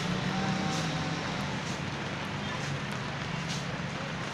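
An engine running steadily at low speed under the even hiss of heavy rain, with a few faint ticks.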